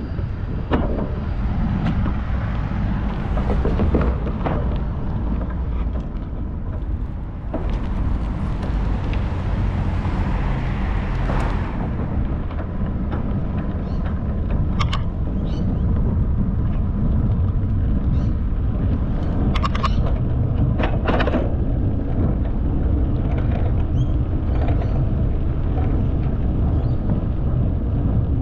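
Steady low wind rumble on a bicycle-mounted microphone while riding, with road traffic around; a louder hiss comes in about 8 seconds in and stops about 12 seconds in.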